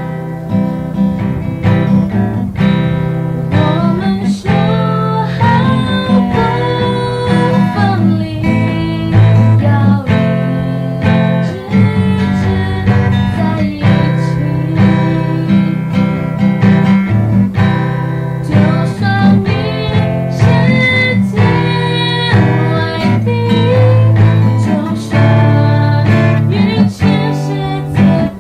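Acoustic guitar music: strummed chords with a melody line over them.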